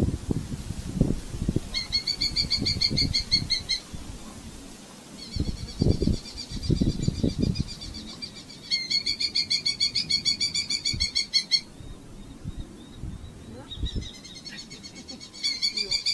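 Red-footed falcon calling in fast chattering series of sharp repeated notes, four bouts of two to three seconds each. Low knocks and rustling sound in the first half.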